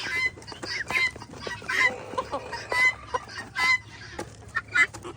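Farmyard poultry clucking and calling: many short, overlapping calls.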